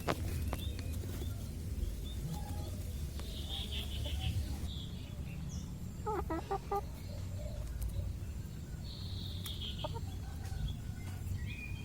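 Chickens clucking and calling in short, scattered bursts, one lower rapid clucking call about six seconds in, over a steady low rumble.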